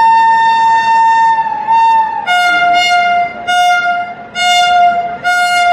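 Train locomotive horn. It holds one long higher note, then drops to a lower note sounded in four short blasts.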